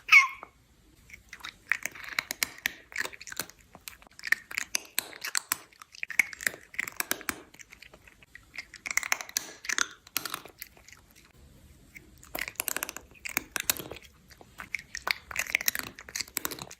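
Close, wet crunching and chewing of something crisp, in irregular bouts of quick bites, with a brief high squeak falling in pitch at the very start.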